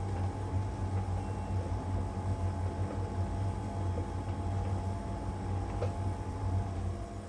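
LG heat pump dryer running: the drum tumbles with a steady low hum and a faint whine. Near the end the drum stops, as it does before reversing direction, and only a steady hum is left.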